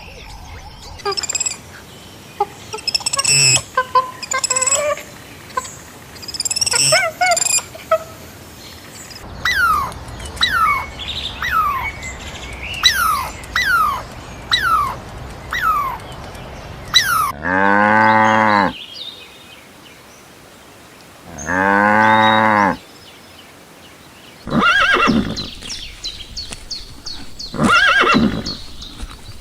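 A string of farm-animal calls: scattered bird chirps, then a run of about eight quick falling chirps, then a cow mooing twice, each moo long and rising then falling in pitch, followed by several shorter animal calls near the end.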